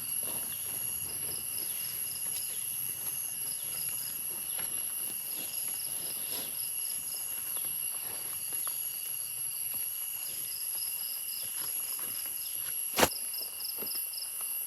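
Forest insects: a steady high-pitched drone of several insects, with repeated short trains of rapid chirping. Faint scattered light knocks run under it, and a single sharp click comes near the end.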